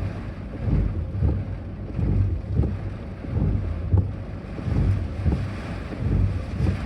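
Gusty wind buffeting the microphone in uneven low rumbling pulses, typical of typhoon winds.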